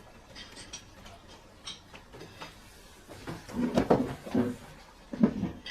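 Faint clicks, then a burst of knocking and clattering about three seconds in, and another knock near the end: household objects being handled and set down.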